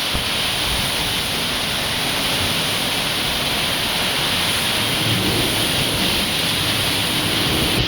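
Heavy rain pouring steadily in a summer thunderstorm: a dense, even hiss.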